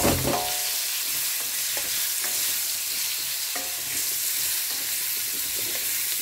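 Baby mushrooms frying in hot olive oil in a wok, a steady sizzling hiss, while a spatula stirs them. A sharp knock on the pan comes right at the start, and later scrapes of the spatula against the wok make it ring briefly now and then.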